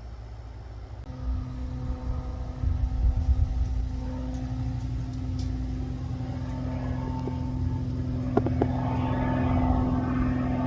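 Aircraft engine droning at a steady pitch, growing louder as it approaches. A couple of short clicks come just past eight seconds in.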